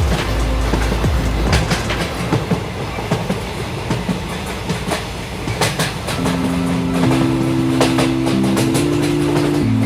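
Train running on rails, its wheels clacking over the rail joints in irregular sharp clicks over a steady rumble. About six seconds in, held music chords come in over it.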